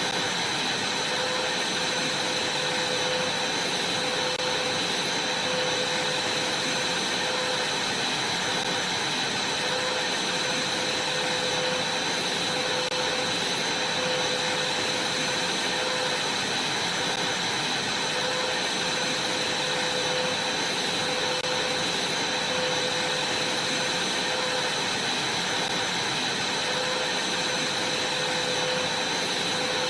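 Vacuum cleaner running steadily: a constant rush of air with a high whine and a lower hum from the motor.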